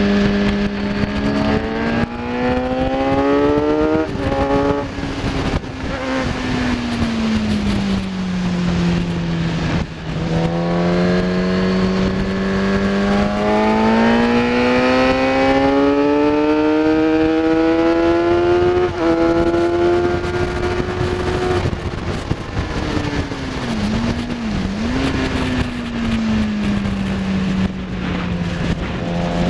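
Kawasaki ZX10R's inline-four engine at racing speed: revs climb hard, drop sharply at gear changes about 4 and 19 seconds in, and fall away in long slides as the bike slows for corners, over a constant rush of wind noise. Near the end the revs dip briefly twice.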